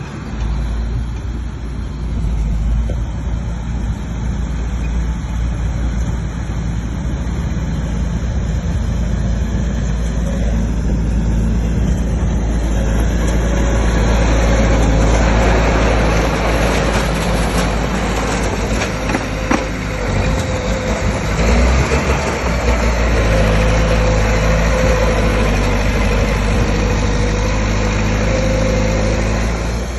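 Bulldozer's diesel engine running steadily, growing louder and noisier about halfway through, with a faint whine over it near the end.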